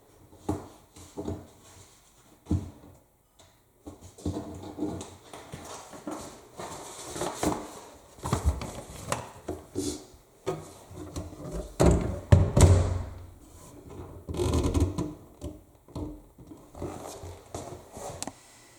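Laundry being loaded into the drum of a front-loading washing machine: irregular rustling and knocking as clothes are handled and pushed in, with the loudest dull thump about twelve seconds in.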